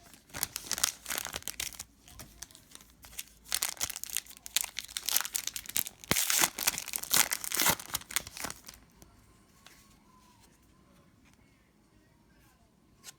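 Foil trading-card pack wrapper being crinkled and torn open by hand, in two stretches of dense crackling, then it goes quiet apart from one short click near the end.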